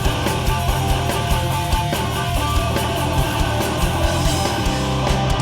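Hardcore punk band playing live: distorted electric guitars and bass over a fast, steady drum beat, with no vocals.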